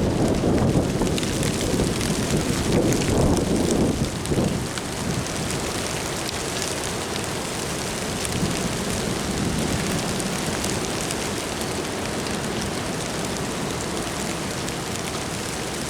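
Strong gusting wind rushing over the microphone, with louder swells in the first four seconds or so, then a steadier rush.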